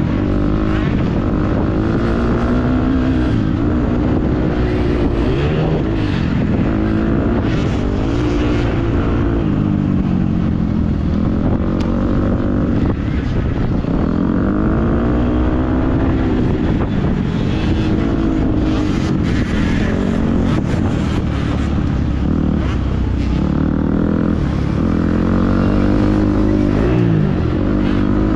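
Motocross bike engine revving up and falling back again and again as it is ridden hard, the pitch climbing and dropping every couple of seconds, over a low rumble of wind and ground noise.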